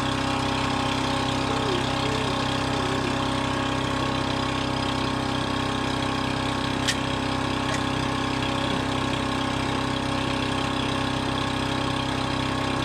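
Engine idling steadily, with two light clicks about seven seconds in.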